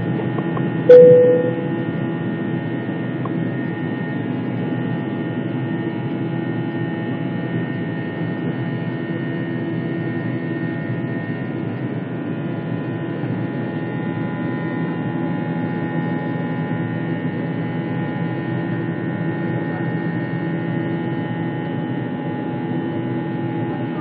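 Airliner engines heard as a steady drone with several held tones, all staying level without rising. About a second in, a short, sharp single tone sounds and fades within half a second; it is the loudest moment.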